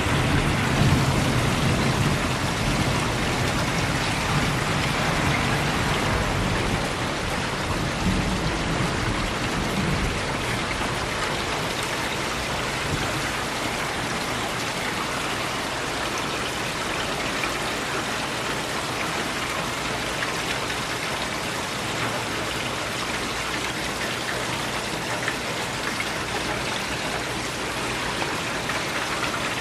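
Steady rain falling in an easing rainstorm, a little heavier in the first several seconds and then settling to an even, slightly softer patter.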